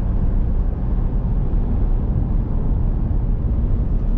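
Steady low road and engine rumble heard from inside a car driving at highway speed.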